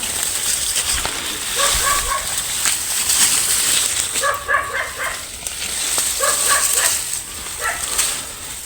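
An animal calling in short runs of four or five quick notes, repeated about every two seconds, over a steady high hiss.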